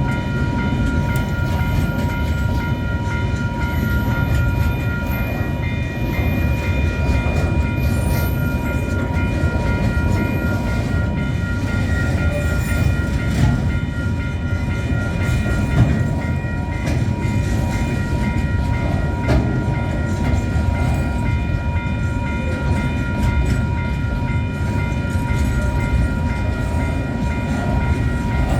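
A train runs steadily through a level crossing, its wheels rumbling and clicking on the rails. Over it, the crossing's warning alarm rings on without a break in a steady high pulsing tone.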